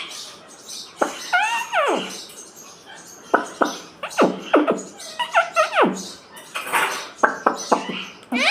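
Indian ringneck parakeet chattering: a quick run of short calls and squawks, many of them sliding steeply down in pitch, with a few clicks between them.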